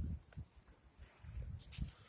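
Shellcracker fillet deep-frying in hot grease in a pan on a camp stove: an uneven crackling sizzle, briefly louder near the end, over irregular low rumbles.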